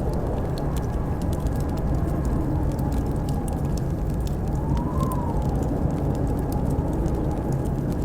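Blizzard wind blowing steadily with a deep rumble, and a howl that rises and falls in pitch about five seconds in, over the scattered crackle of a wood fire.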